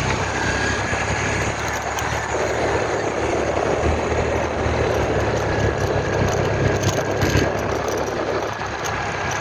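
Vehicle engine running with a steady low hum while driving, joined by a rougher rattling noise from about two seconds in until near the end.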